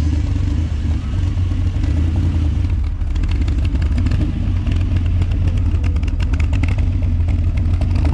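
A vehicle's engine running at low revs, deep and steady, with a quick run of ticking or clattering from about three seconds in.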